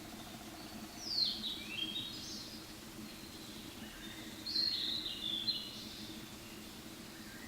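Fairy pitta calling twice, each a falling, stepped call about a second long, over a steady low background hum. These are the cat-like 'myaa' calls that the recordist takes for the pitta's call note, with fainter calls from a second bird further off.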